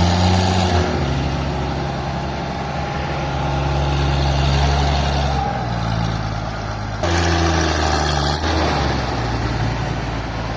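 A heavy engine running steadily at a fairly constant speed. Its pitch shifts a little about five and a half seconds in and changes abruptly about seven seconds in.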